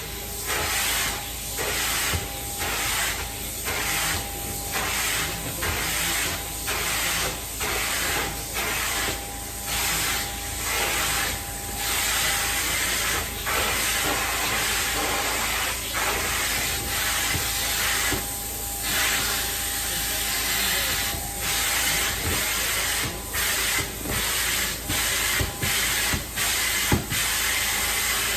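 Carpet-cleaning extraction wand running: a steady hiss of suction and spray, with a faint machine whine under it, dipping briefly again and again as the wand is stroked and lifted.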